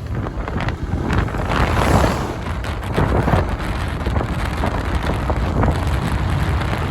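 Wind buffeting the microphone on a moving vehicle, with a dense, uneven rumble that swells and fades.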